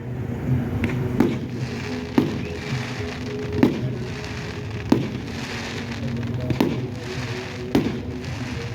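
Fireworks display: about six sharp firework bangs, one to two seconds apart, over music playing in the background.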